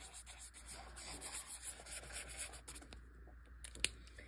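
A drawing tool rubbing back and forth on paper, colouring in a background area with quick scratchy strokes, with a single sharp click near the end.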